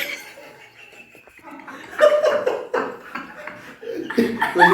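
Giggling and laughter-like vocal sounds, muffled and throaty, growing louder about two seconds in, with a sharp click at the very start.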